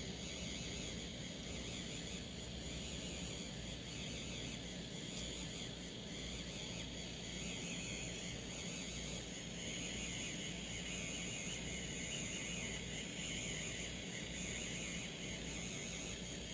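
3D printing pen's filament-feed motor running steadily as it extrudes, a faint high-pitched whine over a low hum.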